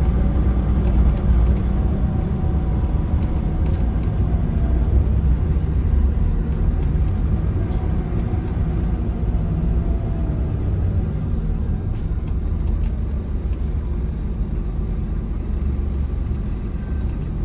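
Inside a Scania L94UB city bus under way: the Scania DC9 diesel engine and road noise make a steady low rumble, with the engine note drifting in pitch and a few light rattles from the body.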